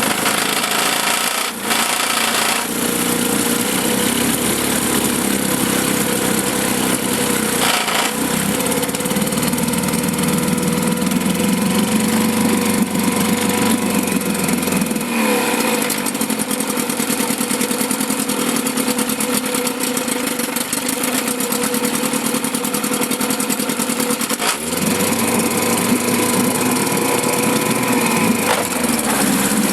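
1954 Johnson CD-10 5.5 hp two-stroke outboard motor running in a test barrel. Its speed changes several times, with noticeable rises and falls in pitch near the middle and toward the end.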